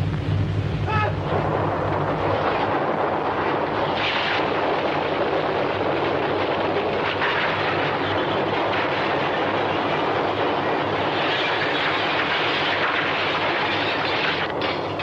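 A dramatised earthquake sound effect: a loud, continuous rumbling roar with low steady tones beneath it.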